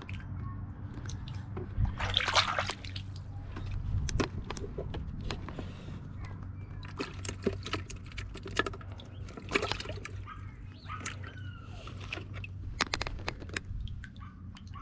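Water sloshing and splashing as minnows are scooped by hand out of a bucket and dropped into a small pond: many short splashes and drips, with a busier stretch of splashing about two seconds in.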